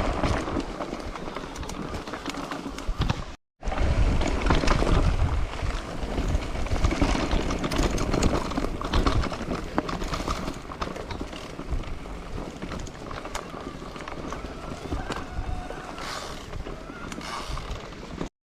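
Bicycle ridden over a rough, bumpy trail: tyres crunching and the bike rattling with many small knocks, with wind rumbling on the microphone. The sound cuts out for a moment about three and a half seconds in.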